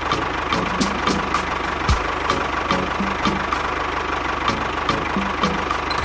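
A small machine's motor running steadily, with a regular clicking about three times a second.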